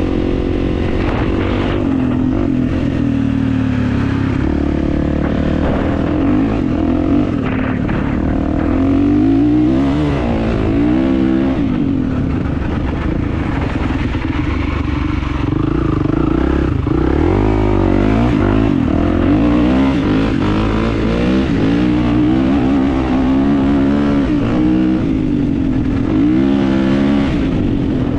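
Kawasaki motocross bike engine being ridden, its pitch rising and falling again and again as the throttle opens and closes through the gears.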